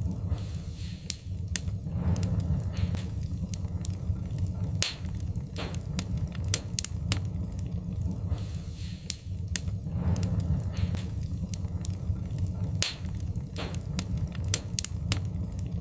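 Wood fire crackling, with irregular sharp pops several times a second over a steady low rumble.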